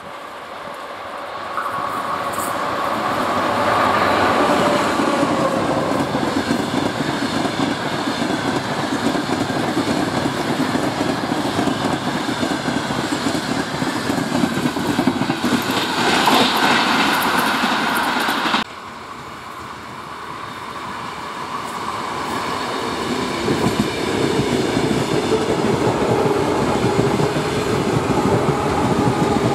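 A train running past on the track, its wheels clattering over the rail joints. About two-thirds of the way through, the sound cuts off abruptly, and a second train's noise builds up steadily as it approaches.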